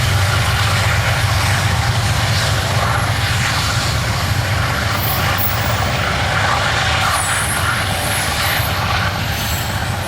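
Norfolk Southern coal train passing close by: a steady low diesel drone with loud rolling wheel noise, and brief high-pitched squeals about five seconds in and again around seven seconds.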